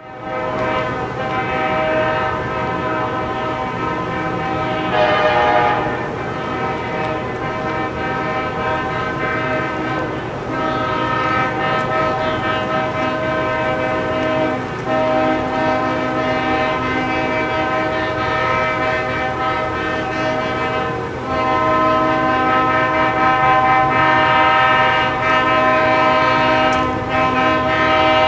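Diesel locomotive air horn sounding a series of long blasts, each several seconds long with short breaks between them.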